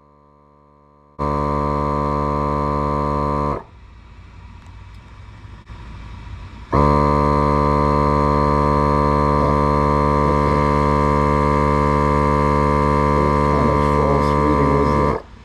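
Milwaukee M18 cordless portable air compressor running with a steady electric hum while inflating a tire, in two loud stretches with a quieter gap between; it stops abruptly near the end.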